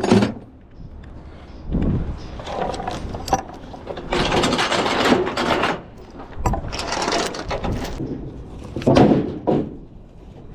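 Gear being handled and set down on a semi truck's catwalk behind the cab: several bursts of rustling and knocking, the longest a couple of seconds in the middle.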